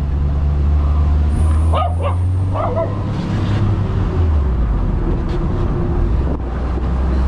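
An open Moke car's engine runs steadily under way. A dog barks twice, briefly, about two seconds in.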